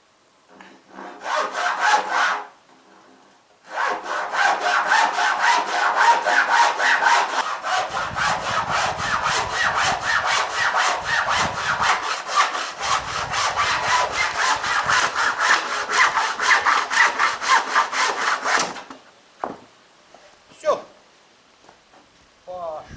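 Hand saw cutting wood with quick, even strokes, about four a second: a short burst, a brief pause, then a long steady run of sawing that stops abruptly.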